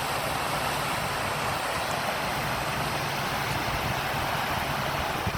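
Waterfall rushing in a steady, even hiss, with a faint low hum underneath.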